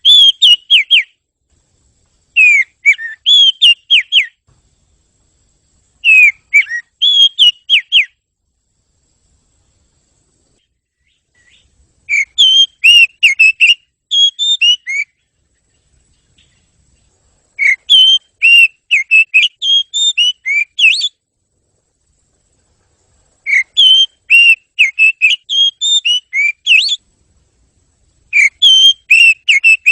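Oriental magpie-robin (kacer) singing in repeated short phrases of quick, clear whistled notes that slide up and down, each phrase a second or three long, with silent pauses of a few seconds between them.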